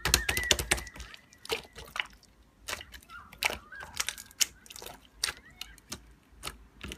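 Irregular sharp clicks and taps, a quick cluster in the first second and then scattered ones every half second or so.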